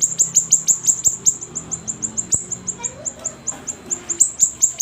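Siri-siri bird singing in full voice: a fast run of sharp, high chirps, about six a second, each a quick downward flick in pitch.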